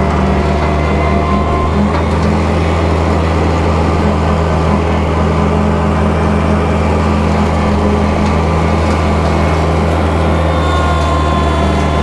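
Kubota tractor's diesel engine running steadily at a constant speed, loud and close.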